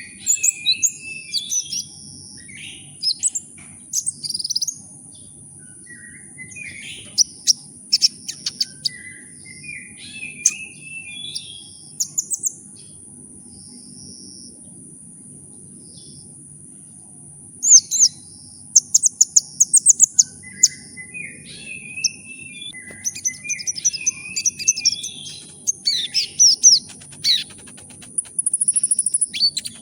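A sunbird of the kind Indonesian bird keepers call 'kolibri ninja', singing phrases of rapid high chirps and trills with short pauses, falling silent for a few seconds about midway. A steady high-pitched whine and a faint low hum run underneath.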